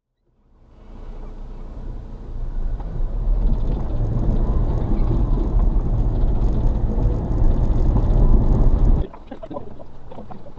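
Suzuki Carry kei truck's 660cc three-cylinder engine and drivetrain running under way, heard from inside the cab as a loud, deep rumble that fades in at the start. About nine seconds in it drops suddenly to a quieter mix of clicks and short squeaks.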